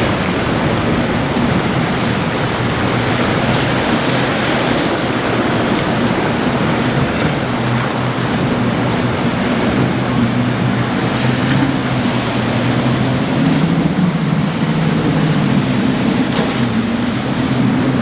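Motorboat engines droning steadily under a loud wash of waves and wind noise. The engine hum grows louder about two-thirds of the way through.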